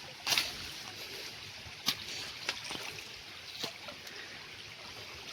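Shallow jungle stream trickling steadily, with a few short, sharp splashes, the first just after the start.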